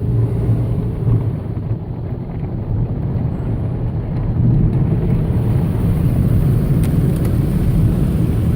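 Automatic tunnel car wash heard from inside the car: water spray and wash brushes running against the body and windows in a steady, heavy wash of noise, a lot of noise, growing louder about four and a half seconds in.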